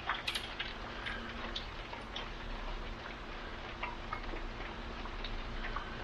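Steady hiss of falling rain with irregular sharp ticks scattered through it.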